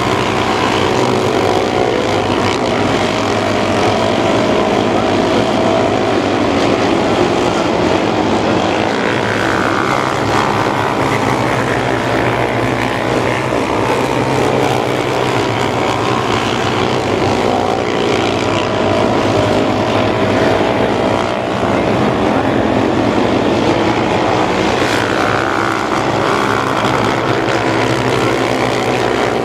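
Small-engine mini sprint race cars running laps on a dirt oval, a pack of engines at full throttle, with the pitch gliding up and down a couple of times as cars pass.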